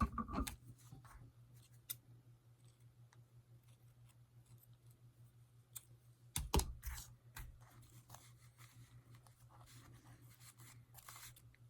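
Faint rustling and small clicks of paper and twine being handled while tying a knot on a handmade card, with a louder knock at the start and another about six and a half seconds in, over a low steady hum.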